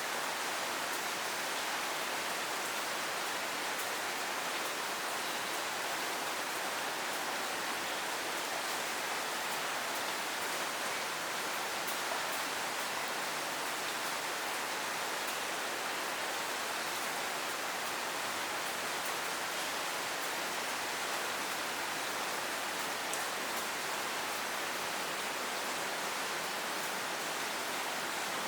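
Steady rain falling in a city street: an even, unbroken hiss of rain with faint scattered drop ticks.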